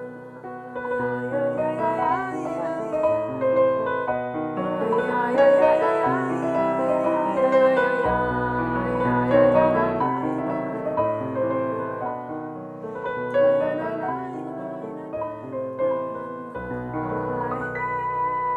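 Electronic keyboard playing a slow melody over sustained chords.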